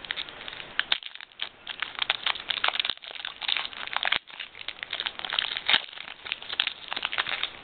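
Foil wrapper of a Pokémon TCG booster pack being crinkled and torn open, a dense run of irregular crackles.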